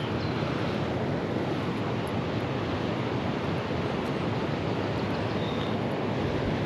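Steady rush of fast-flowing white water, an even noise that does not change.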